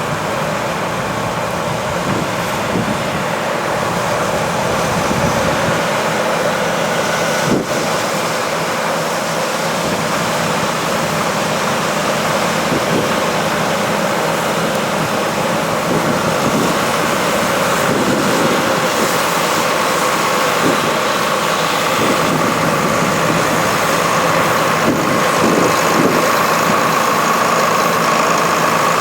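John Deere 9660STS combine harvester running steadily while harvesting wheat, with a whine that grows stronger in the second half. A single sharp click comes about seven and a half seconds in.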